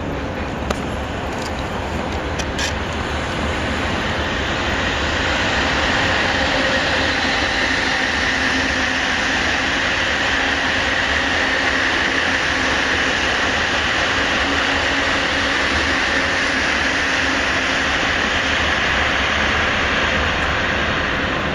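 Freight train running past on the line: steady wheel-on-rail noise that grows louder over the first few seconds and then holds.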